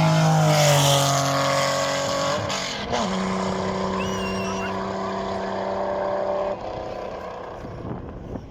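Classic race car's engine passing under power, its note falling gently at first. About three seconds in it steps up to a higher steady note as the car pulls on up the hill, then it fades away.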